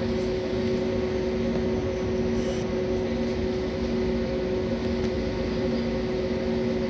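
Airbus A320 cabin noise on the ground before the take-off roll: the engines at idle and the air conditioning make a steady hum with a few held tones.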